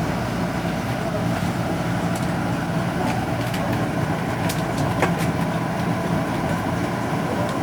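Taroko Express tilting train running, heard inside the passenger carriage as a steady low rumble and hum, with a few faint clicks about halfway through.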